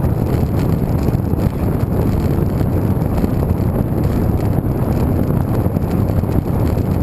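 Wind rushing over the microphone of a camera carried on a moving road bike: a steady low rumble with no break.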